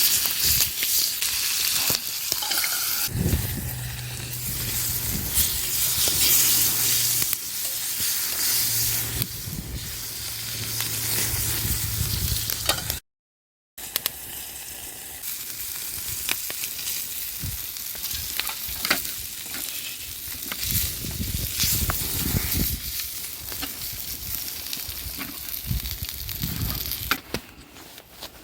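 Food sizzling and frying in a pan over a campfire, a steady hiss with scattered sharp pops. The sound drops out completely for under a second about halfway through.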